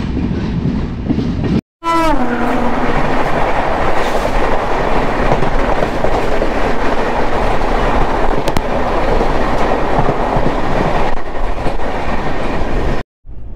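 A passenger train passing close alongside at speed, heard from the open door of a moving train. A horn sounds briefly with falling pitch about two seconds in, then a loud steady rush of wheels and air.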